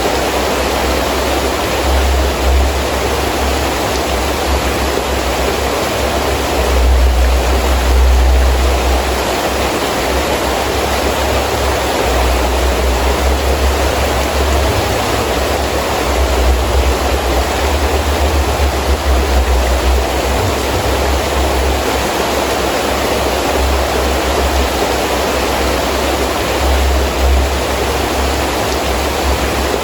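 Heavy rain falling steadily in gusting wind: an even, loud hiss of rain with a low rumble that swells and eases with the gusts, strongest a few seconds in.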